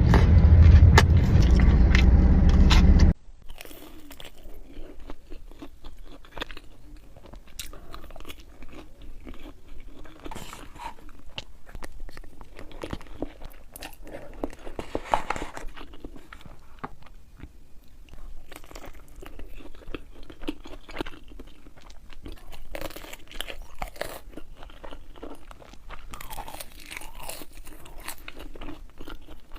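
Close-miked eating: crunchy bites and chewing, with many small crackly crunches. For about the first three seconds a loud low rumble like a car cabin runs underneath, then cuts off suddenly.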